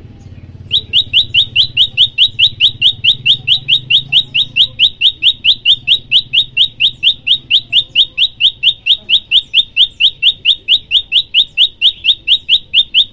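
Prenjak lumut, a small songbird, singing a long fast run of identical sharp rising chirps, about four a second, beginning about a second in and keeping up an even beat.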